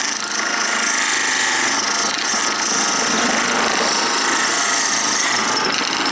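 Wood-turning tool cutting into wood spinning on a lathe, a steady scraping hiss with a faint motor whine underneath, as the cut nears parting the piece off.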